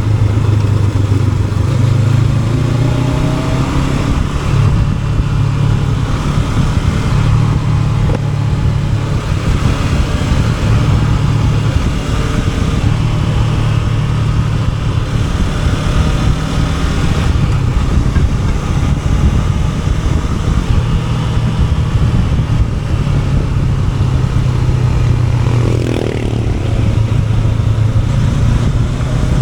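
Honda NX500's 471 cc parallel-twin engine running under way, its note holding steady and shifting in pitch now and then as the throttle changes, with wind rush over it.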